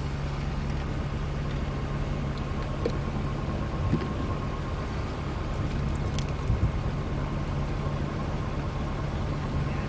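Car running steadily: a low engine hum and road noise, with a few faint knocks near the middle.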